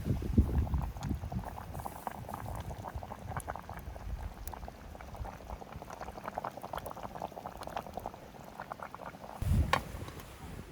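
Water bubbling at a rolling boil in a small camp pot, a dense run of quick irregular pops. A couple of low knocks come at the start and near the end.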